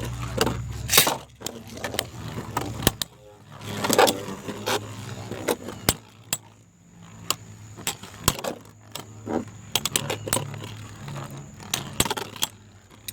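Sharp plastic clicks and clatter at uneven spacing, from Beyblade spinning tops and launchers being handled and set up for a battle, over a low steady hum.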